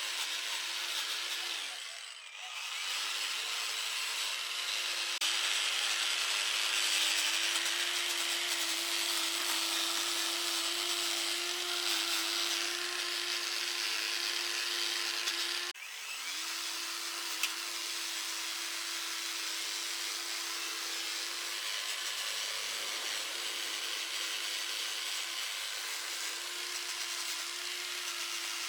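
Handheld electric power tool running at steady speed with a grinding, rubbing hiss from the work. It winds down and starts again about two seconds in, cuts off abruptly just past halfway and starts up again, and winds down near the end.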